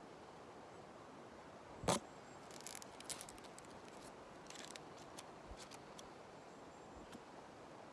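Close-miked dry leaves and spruce twigs being handled: a sharp knock about two seconds in, then scattered crisp crackles and ticks in short clusters over a faint steady hiss.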